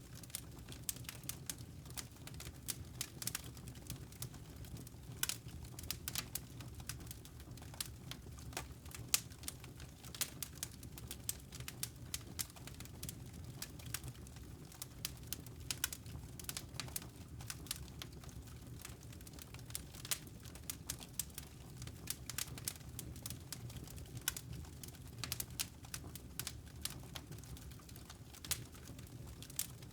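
Wood fire in a fireplace crackling: many irregular sharp pops and snaps over a steady low rumble.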